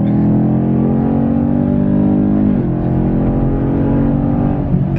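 2018 Chevrolet Camaro SS's 6.2-litre V8 pulling hard under acceleration, heard from inside the cabin. Its note climbs, drops suddenly at a gear change about two and a half seconds in, then climbs again.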